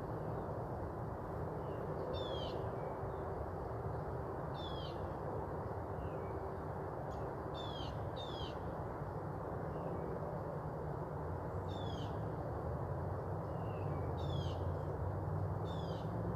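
A songbird repeating a short, high, downward-slurred call every two to three seconds, sometimes twice in quick succession, with fainter notes in between. Underneath is the steady hum and whoosh of an outdoor air-conditioner unit running.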